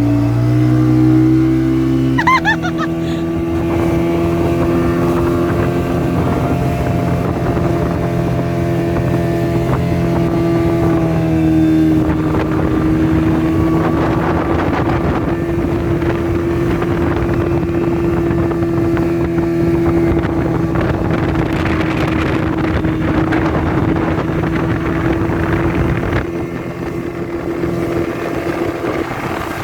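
Motorboat engine running steadily at an even pitch while towing a donut ride, with rushing water and wind noise growing from about a third of the way in.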